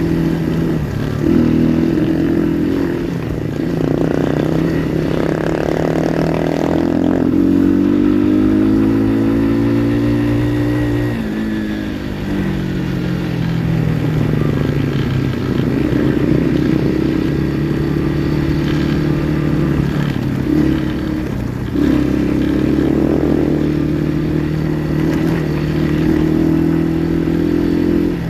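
Kayo pit bike engine running under load, its pitch climbing for a few seconds around the middle, then dropping back and holding steady.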